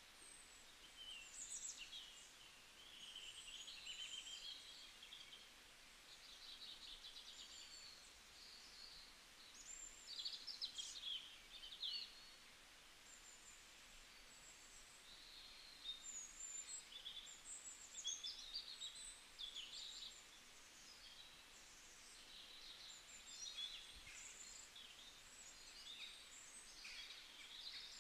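Faint birdsong: many small birds chirping and trilling, high-pitched and overlapping, over a low steady hiss.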